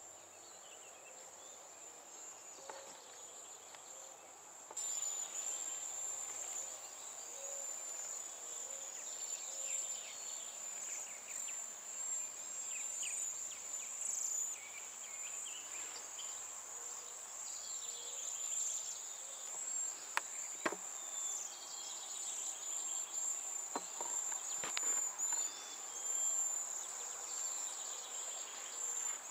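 Outdoor nature ambience: a steady, high-pitched insect trill runs throughout, with many short songbird chirps and calls over it. It gets louder about five seconds in, and a few sharp clicks come near the end.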